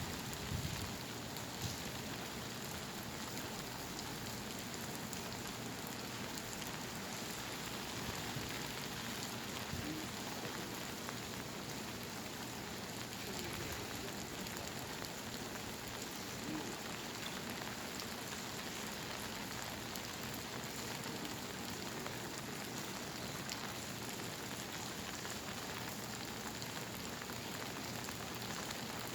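Steady monsoon rain pouring down, an even hiss of drops on surfaces, with a few low thuds about a second in.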